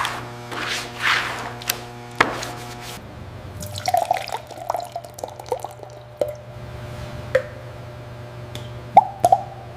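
Repeated abrasive rubbing strokes over a steady low hum, then after an abrupt change about three seconds in, irregular small drips and plinks of liquid.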